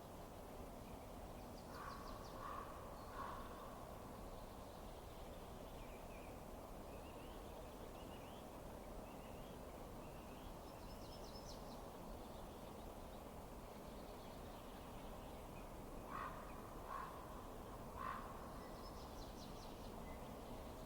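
Faint, steady hiss of a wood fire, with a bird giving two sets of three short calls, a few seconds in and again near the end, and faint high chirps between them.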